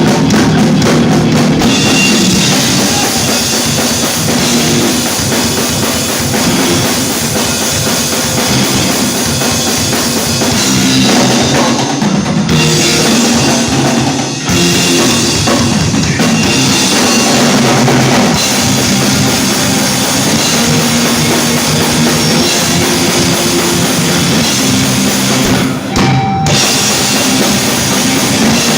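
Rock band playing live, with the drum kit loud and driving. The music drops out in short stops about 12 and 14 seconds in and again near the end.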